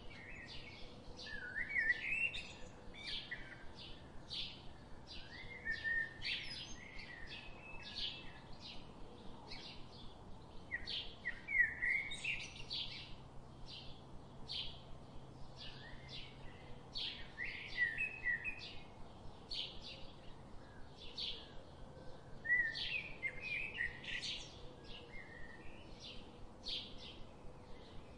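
Birds chirping: short chirps repeated about twice a second, with warbling song phrases every few seconds.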